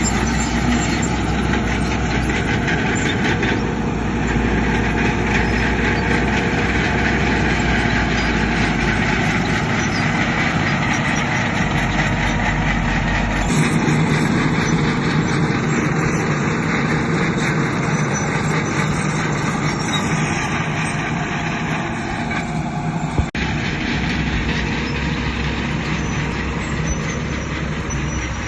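Heavy diesel earthmoving machinery, a bulldozer and dump trucks, running steadily at work. The engine note shifts about halfway through, and there is a single sharp click about two-thirds of the way in.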